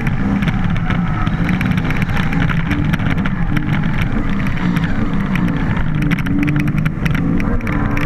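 BMW drift car's engine running hard, its pitch rising and falling repeatedly as the throttle is worked, picked up close by a bonnet-mounted camera along with wind noise.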